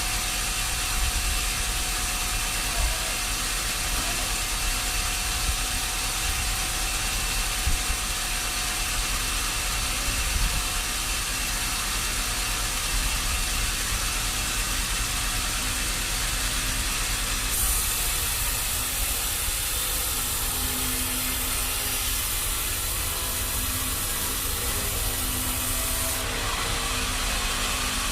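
Machinery running steadily: a low engine rumble under a constant hiss, with a brighter, louder hiss coming in for about eight seconds in the second half.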